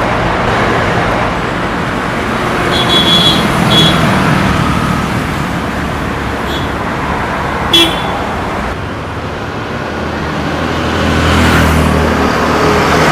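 Busy road traffic with vehicles passing. There are two short high beeps a few seconds in, a sharp click a little past the middle, and a low engine hum that swells near the end as a vehicle passes.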